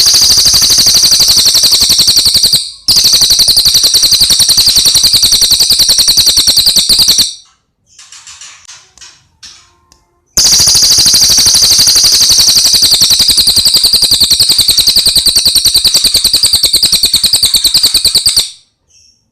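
Cililin bird singing loud, very fast rattling trills of high repeated notes, in three long runs of several seconds each. Between the second and third runs a few soft, short chirps are heard.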